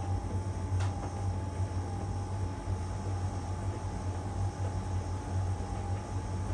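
LG heat pump tumble dryer running mid-cycle, drum turning with a load of laundry: a steady low hum with a thin steady whine above it, and a single light click about a second in.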